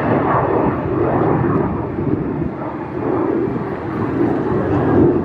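F-16 fighter jet engine noise: a loud, steady rushing rumble that swells and dips slightly.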